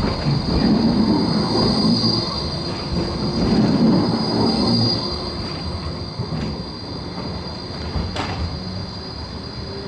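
Basel tram rolling by, its steel wheels giving a steady high squeal over the rumble of wheels on rails. The rumble fades after about five seconds, and there is one sharp click about eight seconds in.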